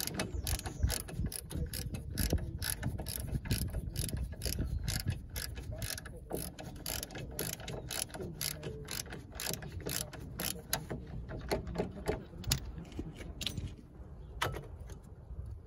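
Socket ratchet clicking, about three clicks a second, while a 15 mm brake caliper carrier bolt is undone; the clicks thin out and stop near the end.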